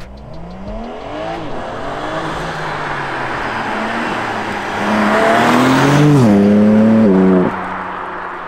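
BMW M3 Competition Touring's 3.0-litre turbocharged straight-six accelerating hard toward and past, the revs climbing and falling back with each upshift. It is loudest as the car goes by, then drops off suddenly and fades as the car drives away.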